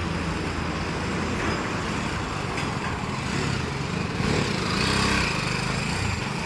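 BMW G 310 GS motorcycle's 313 cc liquid-cooled single-cylinder engine running while the bike is ridden, getting louder about four to five seconds in.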